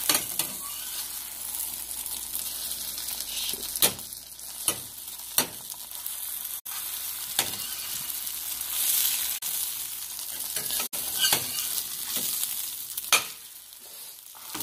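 French toast frying in a pan, a steady sizzle, with several sharp knocks of a utensil against the pan along the way; the sizzle drops quieter shortly before the end.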